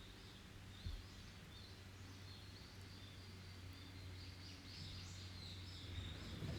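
Songbirds singing in a forest, with quick high chirping phrases that carry on throughout, over a low steady hum. There is a single soft click about a second in.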